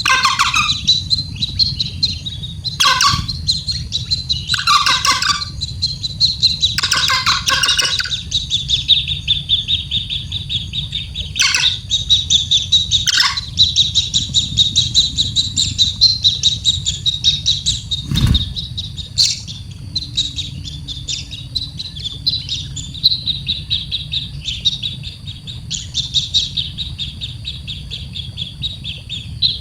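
Baby bird chirping rapidly and without pause, the begging calls of a chick being fed, with several louder, fuller calls in the first half. A single sharp knock about 18 seconds in.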